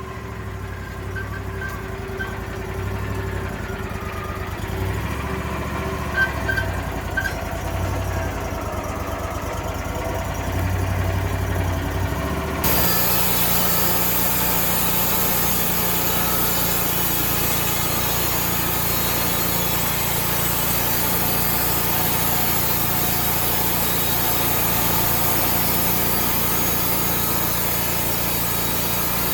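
An engine running under shifting load, growing louder, with a few short squeals. Just under halfway through it changes suddenly to a sawmill cutting: a steady engine note under an even, high hissing rush of the blade through wood.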